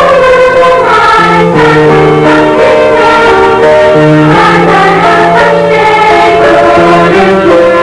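School choir singing a Christmas song, several voices moving in held notes with accompaniment.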